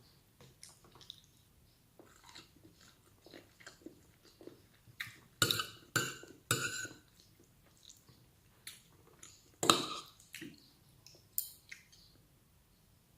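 Close-up mouth sounds of a person eating: chewing with short, crunchy bites, a few louder ones about halfway through and another a little later.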